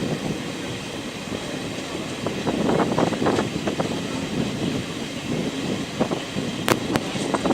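A moving train, heard on board: a steady rumble of wheels on the track with irregular knocks, and two sharp clicks a little under seven seconds in.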